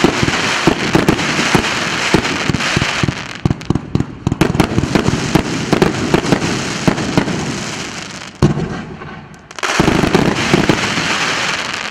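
Consumer firework cake (РС953 battery of salutes) firing: a rapid string of shots and bursts with dense crackling. The shots thin out for about a second around eight or nine seconds in, then a last volley of crackle comes in loud.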